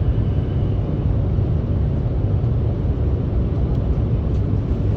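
Steady low rumble of engine and airflow noise inside the cabin of a JAL Airbus A350 airliner.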